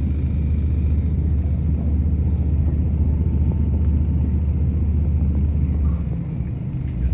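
Passenger train running, heard from inside the carriage as a steady low rumble that eases slightly about six seconds in.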